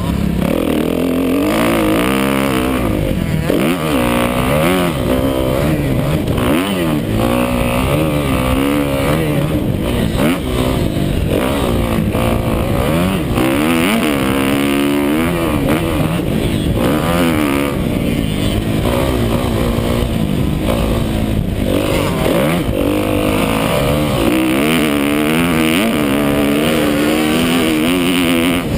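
Motocross bike engine revving hard and dropping again and again as it is ridden round the track, its pitch climbing and falling every second or two through the gears.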